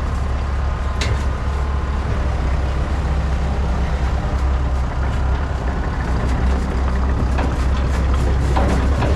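A heavy vehicle's engine running steadily with a deep, constant rumble, and occasional light clicks and rattles over it.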